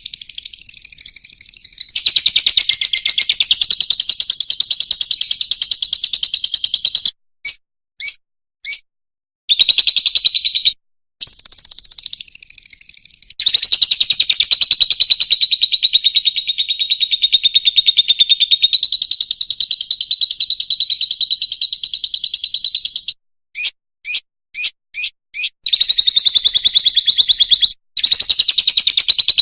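Fischer's lovebird singing: long runs of fast, high twittering chatter, broken twice by a few short separate chirps.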